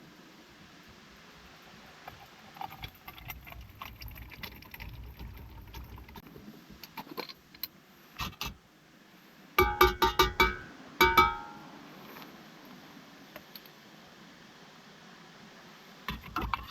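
Light rustling and scattered small clicks, then, about ten seconds in, a quick run of sharp knocks with a metallic ring, followed a moment later by two more.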